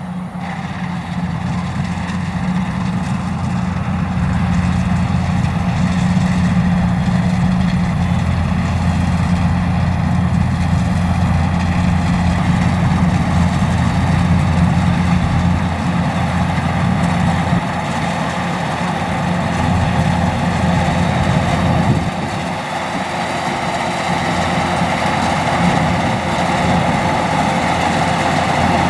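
Kubota DC105X rice combine harvester running steadily under load, its diesel engine droning with the clatter of the cutting and threshing machinery; the level swells over the first few seconds and dips briefly about two-thirds of the way through.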